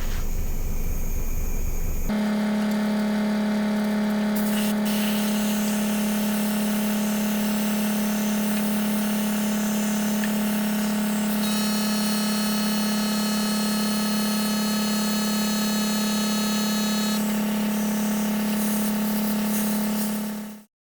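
Air compressor running with a steady, even-pitched hum, supplying air for sandblasting. After a couple of seconds of low rumbling noise the sound switches abruptly to the hum, a higher whine joins in for several seconds midway, and it all cuts off sharply at the end.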